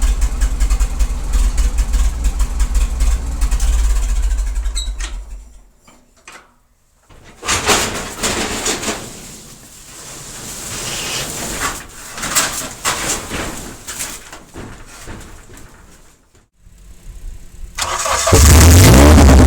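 Old tractor's engine running steadily, then fading out about five and a half seconds in as it is shut off. A quieter stretch of irregular knocks and clatter follows, and loud music starts near the end.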